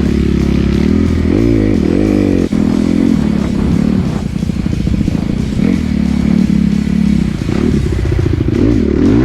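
Dirt bike engine revving on a ride, its pitch climbing and dropping several times as the throttle opens and closes. There is one sharp knock about two and a half seconds in.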